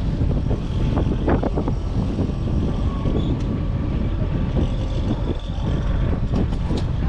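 Fishing boat under way on its motor in rough water: a steady low rumble with wind buffeting the microphone and irregular knocks as waves hit the hull.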